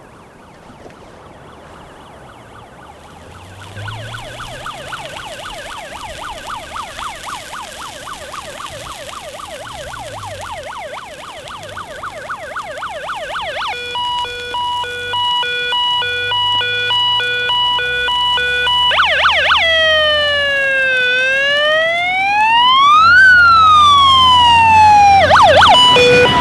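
Fire engine's electronic siren cycling through its tones: a fast warbling yelp, then a pulsed steady tone, then a slow wail falling and rising, then back to the yelp and pulsed tone. It grows steadily louder as the truck approaches, with its engine running low underneath.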